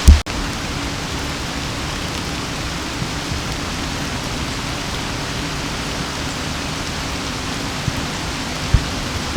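Steady rain falling, an even hiss throughout. There is a loud thump at the very start and a smaller one near the end.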